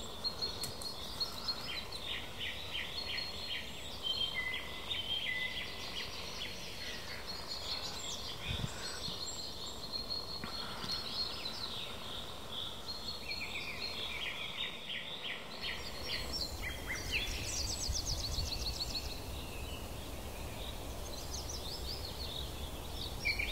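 Small birds singing in the background, with many rapid trills of repeated high notes coming and going, over a faint outdoor hiss.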